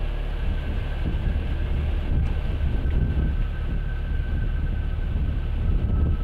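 Steady low rumble of a vehicle on the move, with a faint steady high whine above it.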